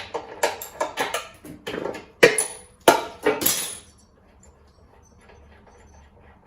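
Metal hand tools clinking and knocking against each other and the mower, a string of irregular sharp strikes with the two loudest a little past two and three seconds in, stopping about four seconds in.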